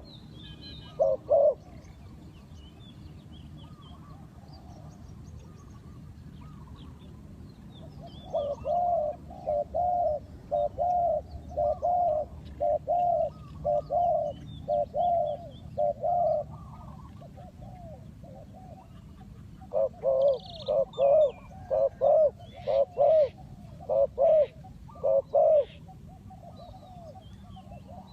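Spotted dove cooing: a short phrase about a second in, then two long runs of repeated coos, one from about 8 to 16 seconds and one from about 20 to 25 seconds. Other small birds chirp faintly in the background.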